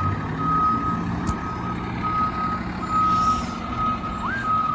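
Fire truck's backup alarm beeping steadily, a little faster than once a second, over the low hum of its engine as the rig reverses. A single sharp click sounds about a second in.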